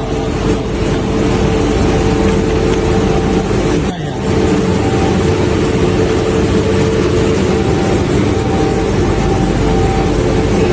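Sandblasting equipment running: a loud, steady rushing hiss with a constant hum over it, dipping briefly about four seconds in.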